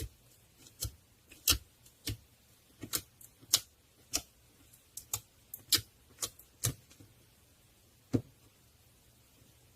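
A string of sharp, irregular clicks and taps, about fifteen over eight seconds, unevenly spaced and varying in loudness, stopping a little after eight seconds.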